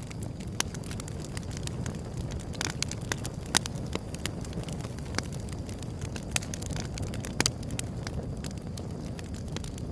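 Wood fire crackling: frequent sharp pops and snaps over a steady low rumble of burning, with two louder snaps, about a third and three quarters of the way through.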